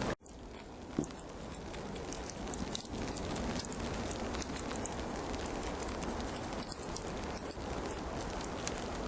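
Footsteps crunching through dry forest leaves and twigs in irregular, crackling steps over a steady outdoor rushing noise, after a brief dropout at the very start.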